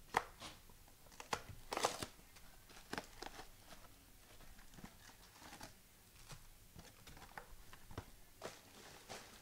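A trading-card mega box and its foil pack wrappers being torn open: irregular sharp tears and crinkling rustles, loudest just after the start and again about two seconds in.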